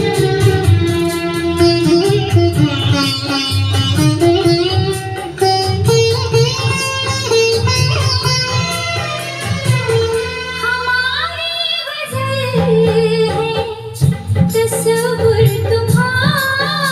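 A song with singing over plucked string and other instruments, played back on a Denon record player.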